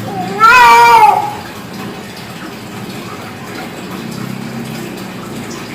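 Hill myna giving one loud pitched call of about a second, rising then falling, in imitation of a child's voice, over a steady hiss.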